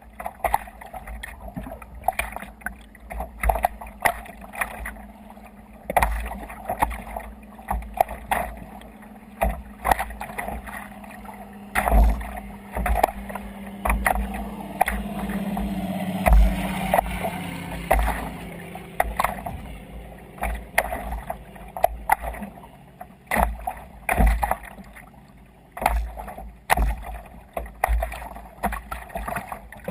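Small waves slapping and splashing against a sea kayak's hull in irregular hits, with wind buffeting the microphone. A longer rushing wash of water rises and falls about halfway through.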